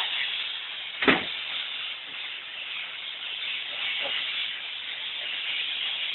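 Steam locomotive hissing steadily as it stands or draws into the station, with one sharp metallic knock about a second in.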